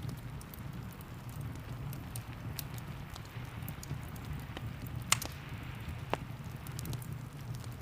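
Wood fire crackling in a fireplace, scattered sharp pops with a louder one about five seconds in, over a steady low rumble and the even hiss of rain.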